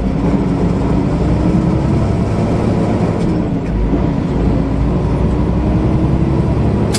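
Steady engine drone and road noise heard inside the cab of a moving semi truck, with a faint hum that drifts slightly up and down in pitch.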